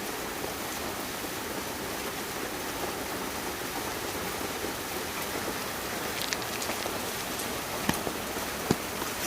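Steady hiss of water, rain-like, with a few sharp ticks or small splashes in the last three seconds.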